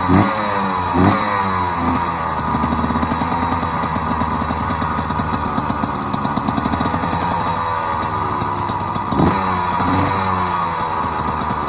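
1996 Yamaha YZ125's two-stroke single-cylinder engine running just after a cold start. The throttle is blipped twice in the first second and a half, the engine settles to a steady idle, and it is blipped again about nine seconds in.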